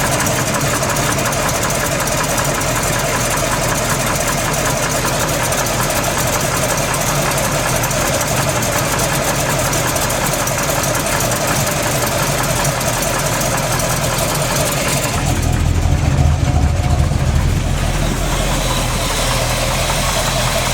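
Chevrolet small-block 350 V8 running at idle, with a knock that the owner suspects is piston slap or flexplate knock rather than rod knock, since pulling each plug wire did not make it go away. About three-quarters through, the engine sound turns deeper and slightly louder for a few seconds.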